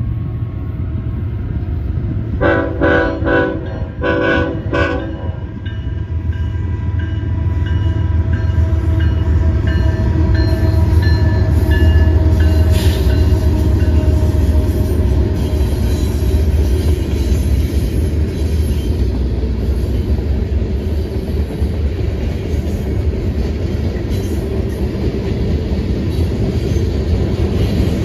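Freight train horn sounding several short blasts between about two and five seconds in. Then BNSF diesel locomotives pass with a loud low engine rumble that peaks about twelve seconds in, followed by refrigerated boxcars rolling by with steady wheel-on-rail noise.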